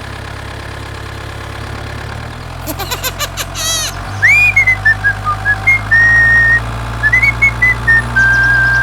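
Mini tractor's small engine running steadily, its hum getting louder about four seconds in. A few clicks come first, then a whistled tune of short high notes with a couple of longer held ones plays over the engine.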